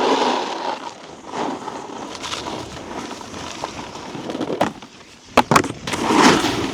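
Snowboard edges scraping and hissing over icy, slushy snow, with two sharp knocks about five and a half seconds in and then a loud scrape as the board lands a terrain-park feature.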